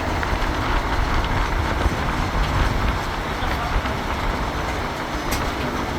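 Tourist road train running along the road: a steady rumble of engine and wheels, heard from aboard the carriage.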